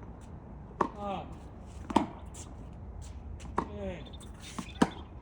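Tennis rally: a tennis ball struck and bouncing in four sharp knocks about a second and a quarter apart. A short falling grunt follows two of the hits, over a steady low wind rumble on the microphone.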